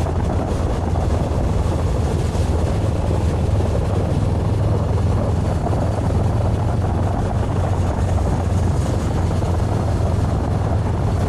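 Honda CB500X's parallel-twin engine running at a steady cruise, a constant low drone under wind and road noise.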